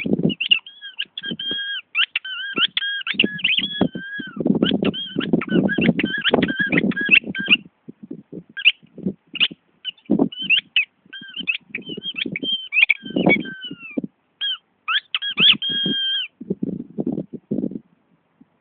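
Dog working a squeaky toy: rapid, repeated high squeaks, some short and some drawn out for about a second, over lower rustling noises. The squeaking stops a couple of seconds before the end, leaving only a few rustles.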